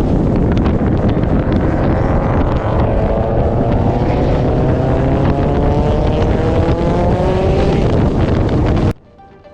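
Car engine under hard acceleration, its pitch climbing steadily for several seconds over heavy wind and road noise. It cuts off suddenly near the end, and quiet music begins.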